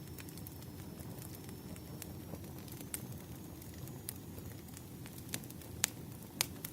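Firewood burning: a steady low rush of flames with scattered sharp crackles and pops, a few louder pops in the second half.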